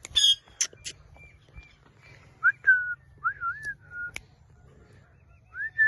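Blue Indian ringneck parakeet calling: a few sharp, shrill chirps in the first second, then a run of short whistled notes that rise and waver, with one more rising whistle near the end.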